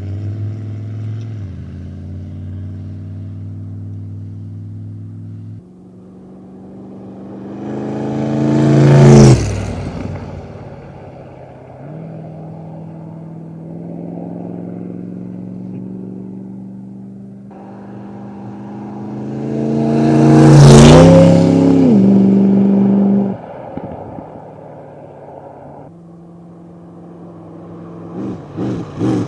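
V8 engine of a Cheetah chopper trike running under load, its pitch climbing and dropping as it accelerates and shifts. It swells to two very loud peaks about nine and twenty-one seconds in.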